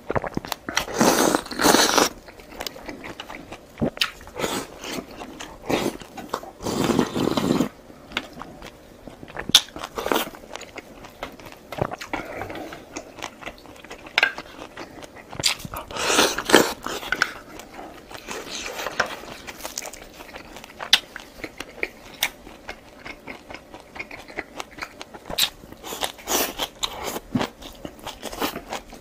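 Close-miked eating: irregular bites, crunches and chewing of food, in scattered bursts.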